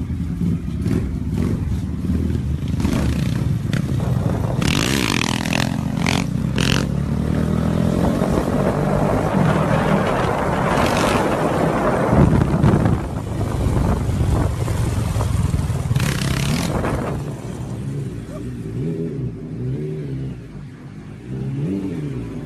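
Motorcycle engine running and revving, its pitch rising and falling as the bike accelerates and eases off, then settling to a lower, steadier note near the end.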